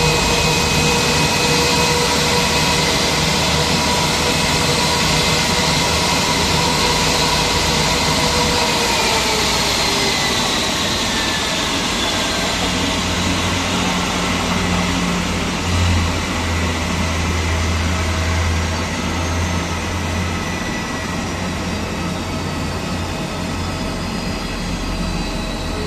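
Airbus A320 jet engines running at idle, a steady rush with a high whine; about nine to eleven seconds in the whine slides down in pitch, and a low hum grows stronger in the second half.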